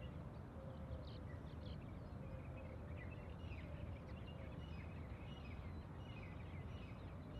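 Outdoor ambience: many small birds chirping in short, repeated calls over a low, steady background rumble.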